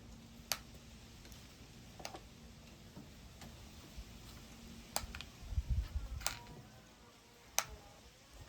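Birds feeding: sharp single taps and ticks a second or more apart, with a short run of soft low thuds about two-thirds of the way in and faint chirps near the end.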